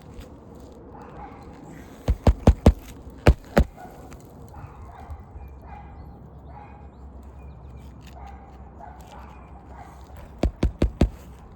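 Nails being driven into a replacement asphalt roof shingle: a quick run of four sharp strikes about two seconds in, two more a second later, and another run of four near the end. A dog barks in the background between the strikes.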